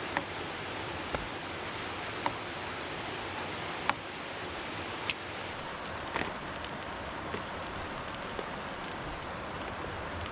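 Steady rain falling, with scattered sharp drips and ticks of drops hitting a surface at irregular intervals.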